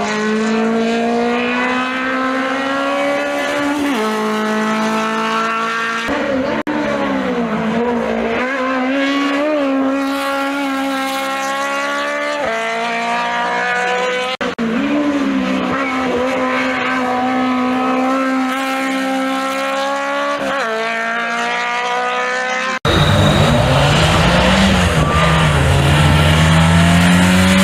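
Simca Rallye race cars' four-cylinder engines pulling hard at high revs in a series of passes. The pitch climbs steadily and drops sharply at each upshift. Near the end the sound changes abruptly to a Simca 1100 TI's engine, with a deeper, louder rumble.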